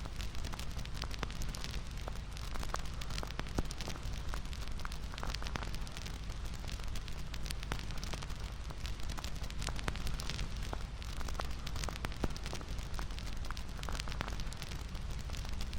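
Bonfire crackling: a steady wash of flame noise with many small sharp pops and snaps all through.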